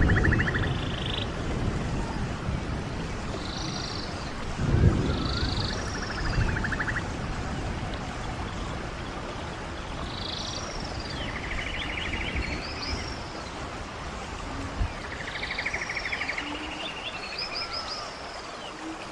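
Songbirds calling over the steady rush of a stream, with short chirping notes and buzzy trills repeating every few seconds. There is a low rumble about five seconds in.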